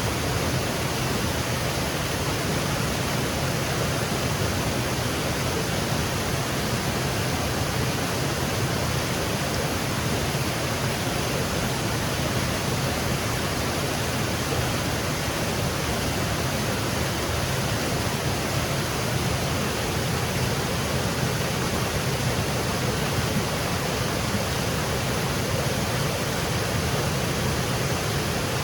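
Small woodland waterfall cascading, a steady even rush of falling water.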